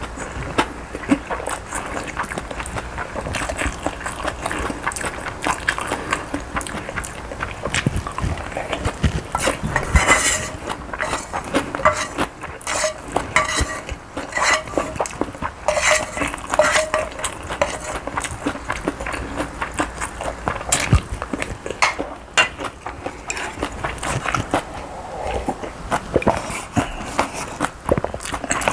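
A spoon clinking and scraping against a bowl over and over as a mixed bibimbap is eaten, with mouth noises of eating in between.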